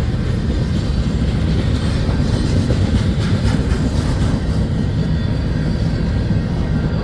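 Freight train cars rolling past: a steady, loud low rumble of steel wheels on rail, with a few faint clicks about three seconds in.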